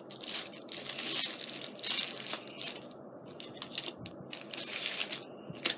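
Rummaging through craft supplies by hand: crinkling and rustling in irregular bursts, with a few small clicks, the sharpest one near the end.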